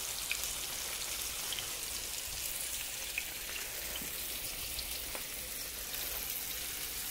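Cornmeal-battered catfish nuggets sizzling in hot oil in a cast-iron skillet: a steady hiss with scattered small pops and crackles.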